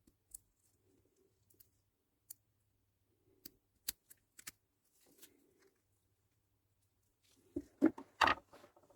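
Small metal shifter parts and tools clicking and ticking as they are handled, a few sparse clicks, then a quick, louder cluster of clicks and rattles near the end.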